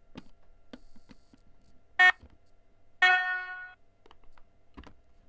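Sound decoder of a Trix Class 77 model diesel locomotive sounding its horn through its small onboard speaker: a short blast about two seconds in, then a longer one that fades out, set off unbidden as the locomotive takes power from the track. A few faint clicks around them.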